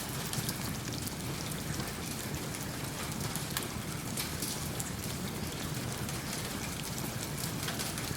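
Steady rain, an even hiss, mixed with a wood fire in a fireplace crackling in frequent small sharp pops.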